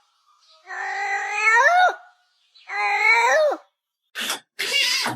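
A cat meowing in two long, drawn-out, voice-like meows, each rising and then dropping at its end, as if 'talking'. Short breathy, hissing noises follow near the end.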